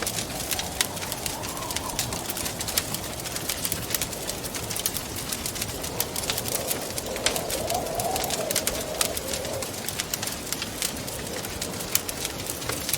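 Wood fire crackling with frequent sharp pops over a steady hiss, while a moaning wind swells and wavers in pitch, once near the start and again more strongly in the middle.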